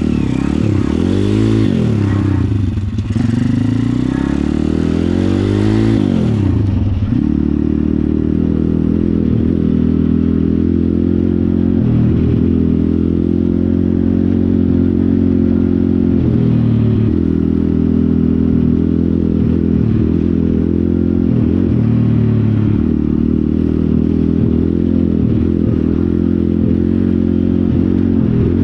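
Pit bike engine revved up and down several times, then running at a steady pitch with a few brief drops in revs.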